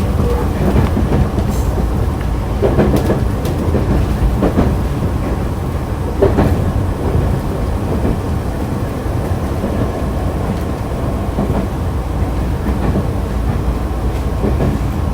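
Running sound of Nankai electric train set 2036F at speed, heard on board: a steady rumble of wheels on rail with a few rail-joint knocks in the first half.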